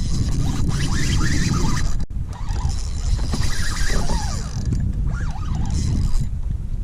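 Wind rumbling on the microphone, with a string of short bird calls that rise and fall in pitch.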